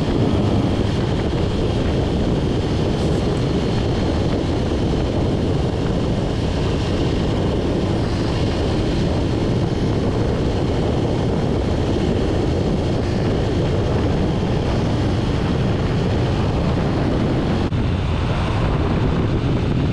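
Honda Rebel 300 motorcycle cruising down a long hill: a steady rush of wind and road noise over the hum of its engine.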